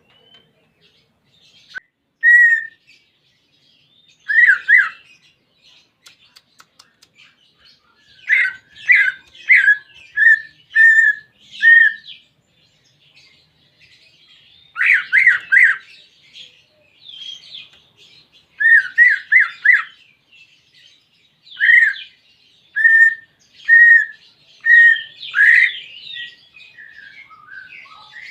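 Cucak ijo (greater green leafbird) singing: runs of three to five quick, down-slurred whistled notes, with softer chattering notes above them. The runs are separated by pauses of a second or two.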